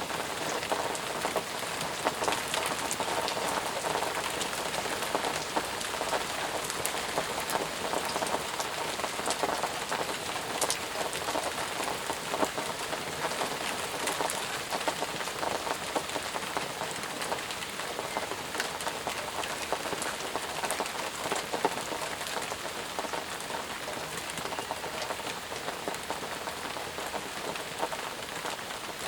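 Steady rain falling, a dense patter of drops striking surfaces with many sharper individual drop hits.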